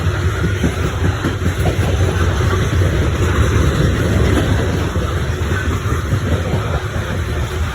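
Cars of a long CSX coal train rolling past, a steady low rumble with a dense rattle and clatter of wheels on rail.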